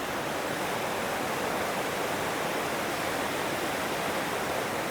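Steady rush of flowing water, an even, unchanging noise.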